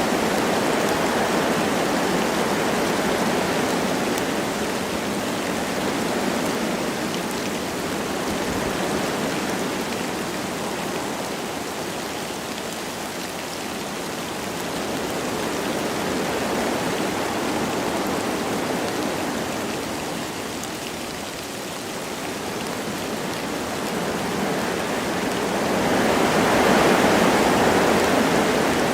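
Wind blowing through forest trees with light rain falling, a steady rushing that swells and eases in slow gusts, growing strongest near the end.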